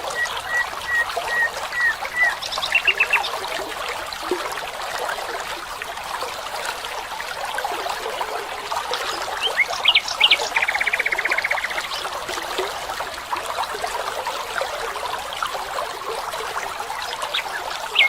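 Steady trickling of a stream, with birds calling over it: a string of short whistled notes at the start, brief trills about three seconds in, and chirps followed by a fast trill about ten seconds in.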